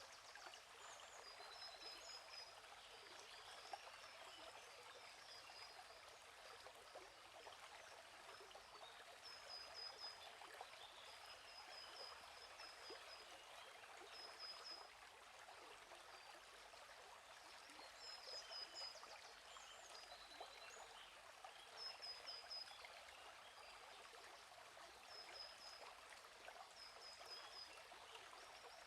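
Faint, steady babbling of a flowing stream, with small birds chirping over it: short high chirps in quick runs that recur every few seconds.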